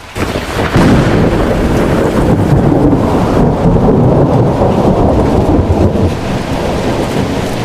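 Loud, steady rumbling rush of noise with no tune or voice: a sound effect played for the shark. It swells up about a second in.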